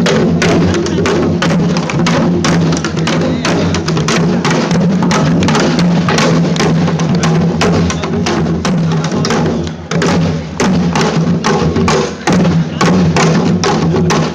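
Live percussion ensemble playing a fast, dense rhythm of rapid drum strikes, with brief drops near ten and twelve seconds in.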